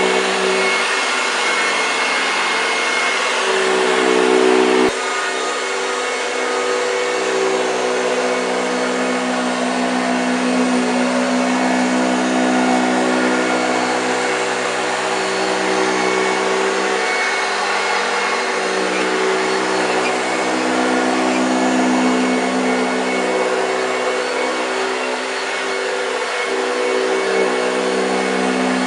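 A 1965 Hoover Junior 1334A upright vacuum cleaner running steadily, its motor hum rising and falling slightly over a rush of air. A click about five seconds in brings a sudden drop in level, after which it runs on.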